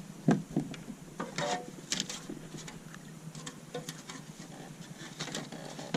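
Scattered knocks, taps and light rattles of a freshly caught bass and tackle being handled in a kayak, the loudest a thump about a third of a second in.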